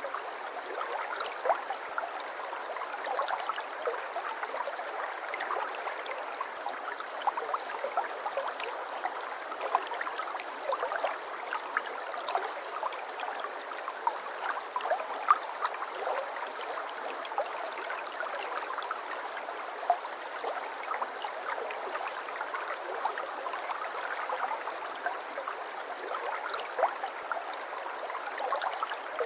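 A babbling brook: water running steadily, dotted with many small, quick splashes.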